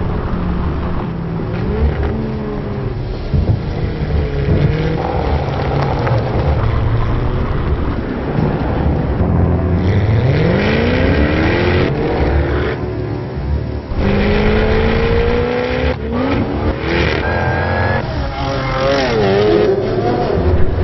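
Jaguar F-Type Coupe's engine revving and accelerating hard, its pitch climbing steeply about ten seconds in and again a few seconds later, with tyre squeal.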